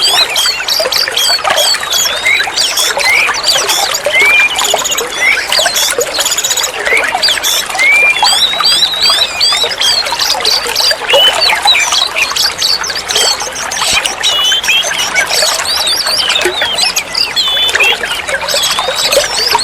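Oriental magpie-robin (kacer) song: a fast, unbroken stream of varied whistles, trills and chirps.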